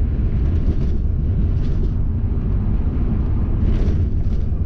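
Steady low rumble of a camper van's engine and road noise, heard from inside the cab.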